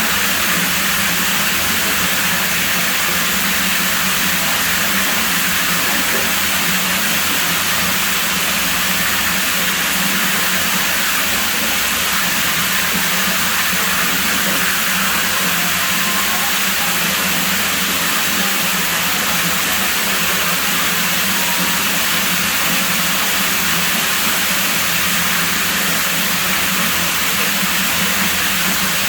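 Pool water rushing in a steady, unbroken hiss.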